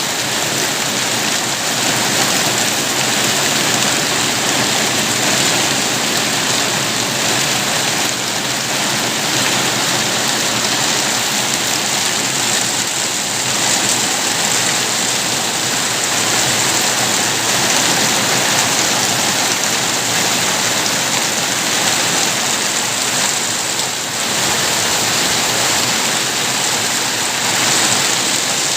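Steady, heavy rain falling, an even hiss of drops on surfaces that holds level throughout.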